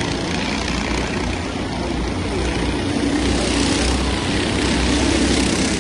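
Race engines running on the oval track, a steady loud drone with a low rumble that grows slightly louder about halfway through.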